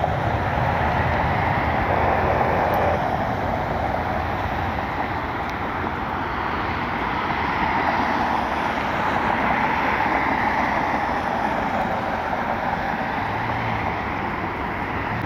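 Jet airliner engines heard across an airfield: a steady rushing noise that swells and eases slowly.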